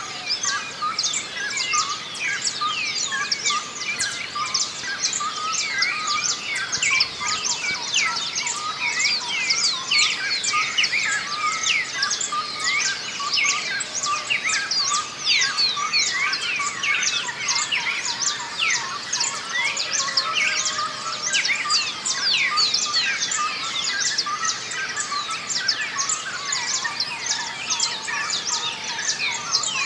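Many small birds singing and chirping at once in a dense, continuous dawn chorus, with quick overlapping calls and falling notes.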